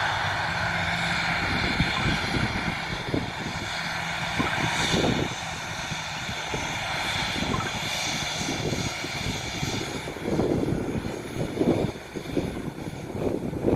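Airplane engines running steadily, a continuous engine hum and whine. Irregular low rumbles come and go in the second half.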